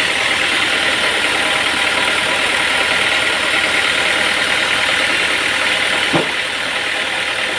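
Sawmill running steadily, a continuous machine noise, with a single sharp knock about six seconds in.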